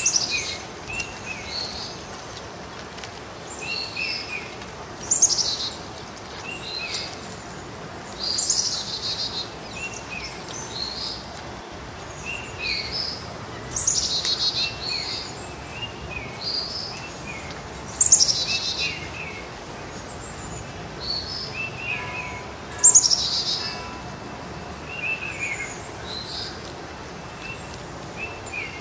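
Birds singing: a high, downward-sweeping phrase repeated every four to five seconds, with shorter chirps in between.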